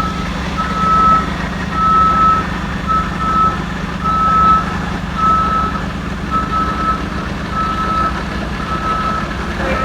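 Heavy truck's reversing alarm beeping steadily, about one beep a second, over the low, steady hum of a running truck engine.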